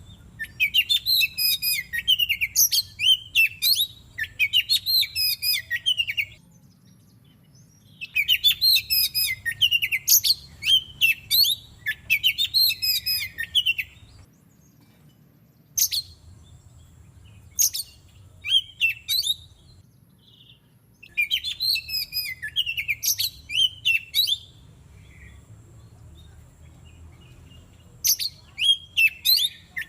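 Oriental magpie-robin song: phrases of rapid, varied whistled notes lasting several seconds, separated by pauses of one to two seconds, with a few scattered single notes in the middle.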